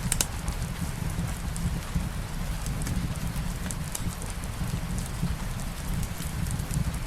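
Steady rain falling, an even hiss with a low rumble under it, mixed with scattered sharp crackles from a wood fire in a fireplace; one of the sharpest crackles comes just after the start.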